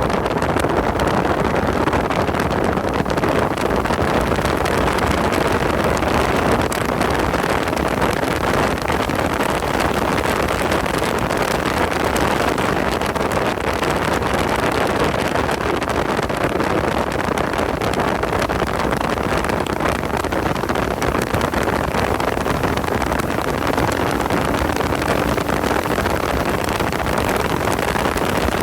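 Car driving at speed: a steady mix of engine, road and wind noise with no clear change in pace.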